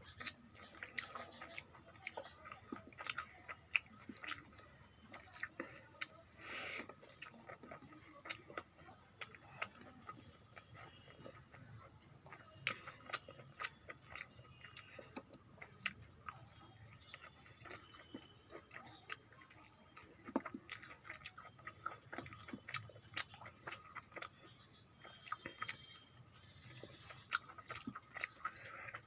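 Close-miked chewing and mouth sounds of a person eating rice and curry: many small, irregular wet clicks and smacks, with a brief louder rustle about six and a half seconds in.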